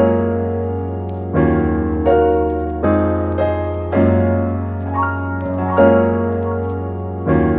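Background piano music: slow sustained chords, a new chord struck about every one and a half seconds and left to ring.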